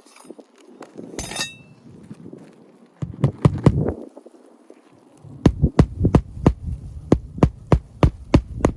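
Hammer blows on a shingle roof: a few strikes, then a steady run of about three blows a second in the second half, as of nails being driven through asphalt shingles. A short rustle comes about a second in.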